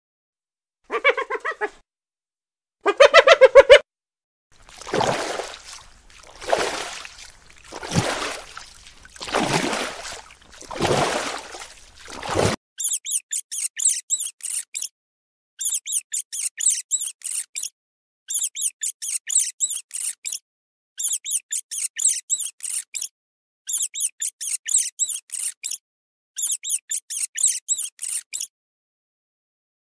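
Animal calls. First come two short laughing calls, typical of a spotted hyena's giggle. Five breathy swelling sounds follow, and then about six bursts of rapid, very high-pitched squeaking.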